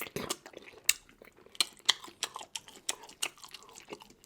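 Close-miked chewing of seafood, with a run of short, sharp crunches and clicks, a few a second.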